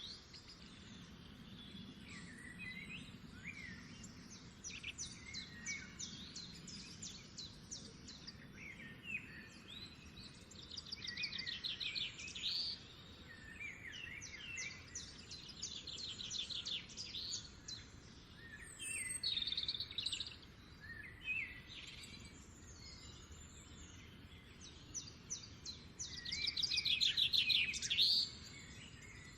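Songbirds singing: repeated phrases of rapid high trills, each a second or two long, with shorter chirps in between, the loudest trill near the end. A faint steady background noise lies underneath.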